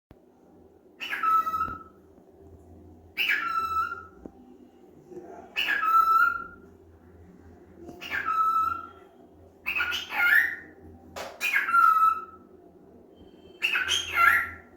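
Cockatiel repeating a mimicked "peekaboo" call seven times, about every two seconds; each call slides down into a short held note at the end.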